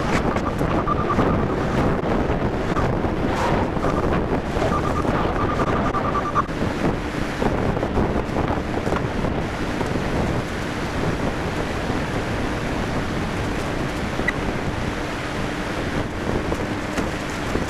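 Truck-mounted Moffett forklift running as it moves the load, heard through steady wind noise on the microphone.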